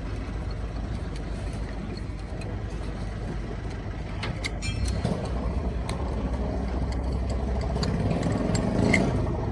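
A vehicle engine running with a steady low rumble that grows louder about halfway through, with a few short clicks just before.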